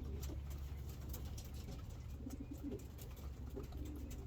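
Young racing pigeons cooing in the loft: a few low coos about two seconds in and again near the end, with scattered faint clicks over a steady low hum.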